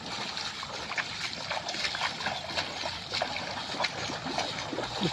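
Water splashing and trickling, a continuous run of small, irregular splashes.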